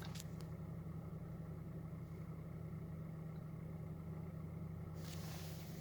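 Hyundai Solaris 1.4-litre four-cylinder petrol engine idling steadily with a low, even hum. A faint hiss joins about five seconds in.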